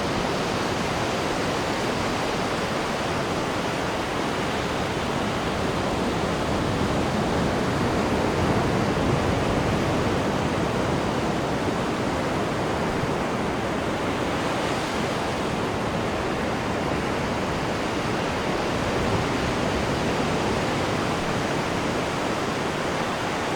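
Steady rushing of churning water in a cruise ship's wake seen from the stern, swelling slightly about a third of the way through.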